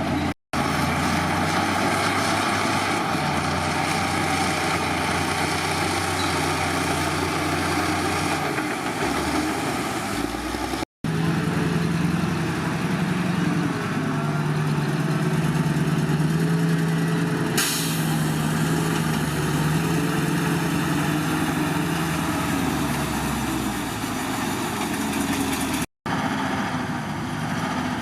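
Heavy diesel engines of earthmoving machinery running at work. The engine note changes between short clips joined by brief silent cuts.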